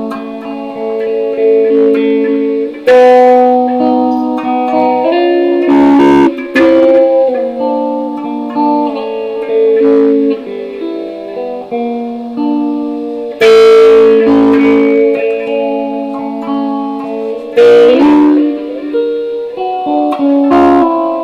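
Electric guitar played through a microphone: chords and single notes left to ring and changing every second or two, with a few harder strummed chords standing out.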